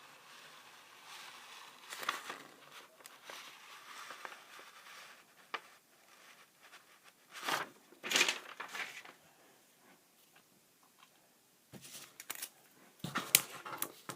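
Irregular handling noise: short rustles and crinkles, loudest about 8 seconds in and in a cluster near the end.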